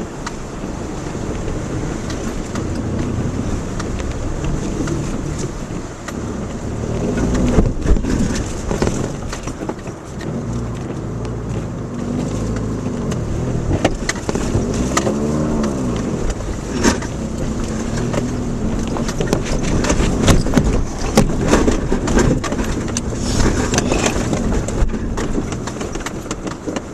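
Subaru Outback crawling over a rough, rocky dirt track. The engine runs steadily and its revs rise and fall several times around the middle, under a constant rumble with many sharp knocks and clunks as the car jolts over rocks.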